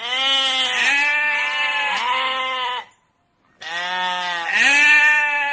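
Goat bleating: two long, quavering bleats with a short silence between them, the first wavering in three pulses and the second rising in pitch about a second in.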